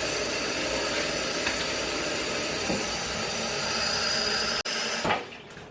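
Kitchen tap water running steadily in a sink, shut off sharply near the end, leaving a few drips.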